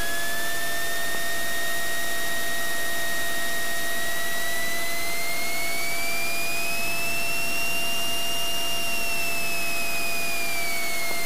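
Cessna 182 Skylane cabin noise: steady engine and airflow roar. Over it, a high whistling tone slowly rises and then falls again. The sound cuts off abruptly at the end.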